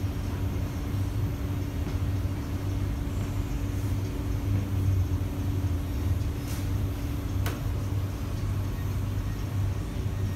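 Steady low rumble and hum inside an SMRT C151B train carriage as it draws up at a station, with two sharp clicks about a second apart past halfway.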